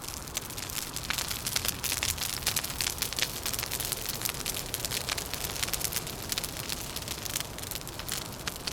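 Wood fire crackling with a dense patter of small pops and snaps, over a steady low rumble.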